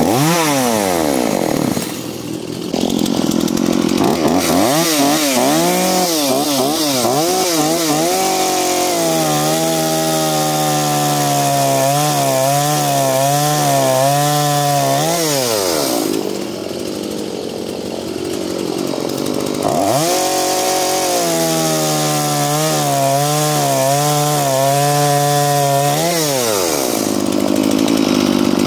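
Two-stroke petrol chainsaw (a home saw of about 35–51 cc) idling, then revving to full throttle and held there through a cut, its pitch wavering. It falls back to idle and does this twice.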